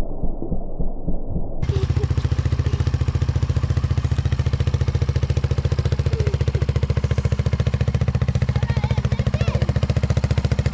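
Polaris RZR side-by-side engine running steadily with an even, rapid firing beat and no revving. It cuts in suddenly under two seconds in, after a muffled low thumping.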